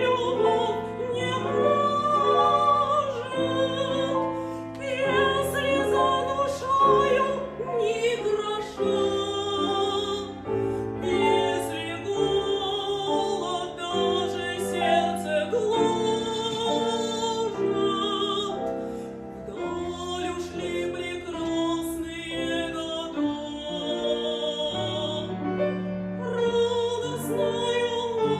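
A woman singing an operetta number in classical operatic style, her voice with a wide vibrato, over piano accompaniment.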